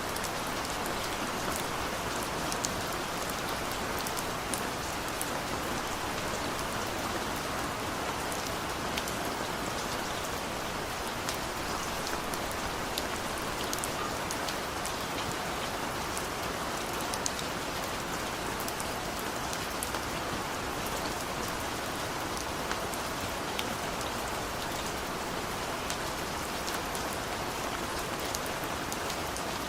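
Steady rainfall with many scattered individual drops pattering on surfaces, an even wash of rain without thunder.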